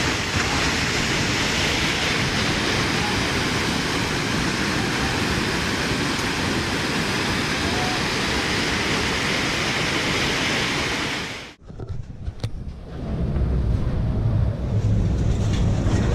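Floodwater from an overflowing river rushing past in a steady, loud wash of noise. It cuts off abruptly about twelve seconds in, and low wind buffeting on the microphone takes over.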